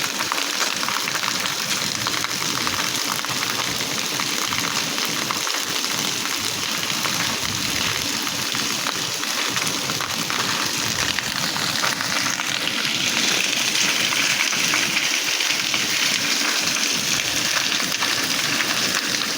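Steady rain falling, a dense even hiss that grows a little louder about twelve seconds in.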